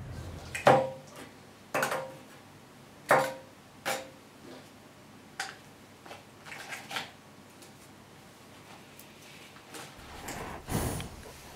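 Plastic toy horse figures handled and knocked against a tabletop: a series of sharp knocks and clicks a second or so apart, loudest in the first four seconds, then lighter taps and a short rustle near the end.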